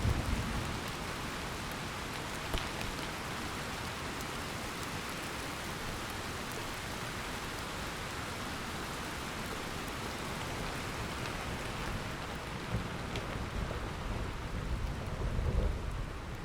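Steady heavy rain falling in a thunderstorm, with the tail of a low thunder rumble dying away in the first second and another rumble of thunder rolling in near the end.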